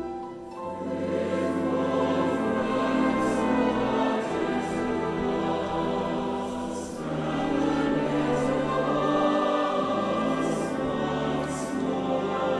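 A mixed choir singing held chords, with the bass line moving beneath and sibilant consonants cutting through every second or two.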